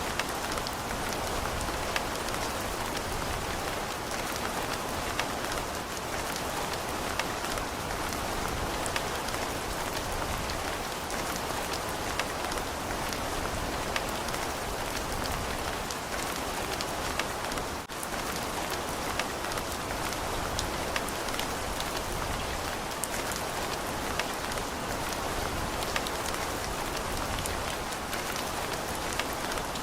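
Steady, heavy rain, a dense hiss of falling water with many small individual drop impacts pattering through it. The level holds even, with one brief momentary dip about eighteen seconds in.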